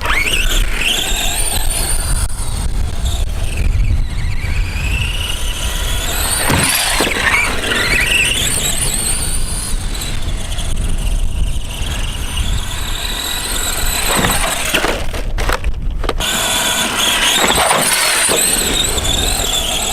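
Brushed electric motor and drivetrain of an ARRMA Granite 4x4 Mega RC monster truck whining as it is driven hard, the pitch rising and falling with the throttle, over a low rumble. The whine cuts out briefly about 15 seconds in, then picks up again.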